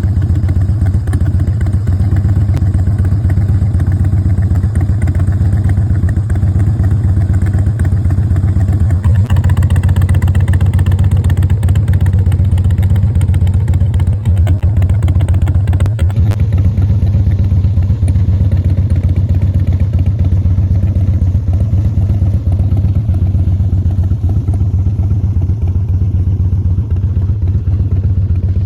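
Harley-Davidson Road King's 88 cubic inch Twin Cam V-twin, fitted with a Feuling 525 cam and a Bassani Road Rage exhaust, running steadily at idle with a deep rumble from the exhaust.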